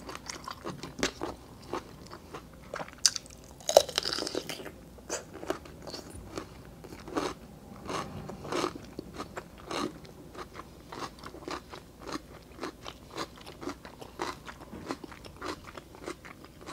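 Close-miked chewing of lobster meat: irregular wet mouth clicks and small crunches, with a louder crunch about four seconds in.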